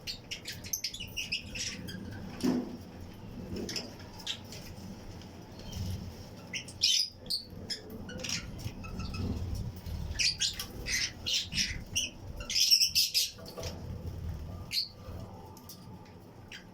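A colony of Fischer's and lutino lovebirds chirping and squawking, with many short, shrill calls overlapping in bursts, the densest a little before halfway and again about two-thirds of the way in.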